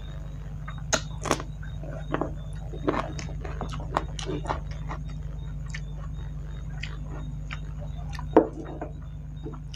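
Close-miked eating: crisp crunching bites and chewing of raw onion with rice eaten by hand, in irregular short crunches, and one louder knock a little after eight seconds. A steady low hum runs underneath.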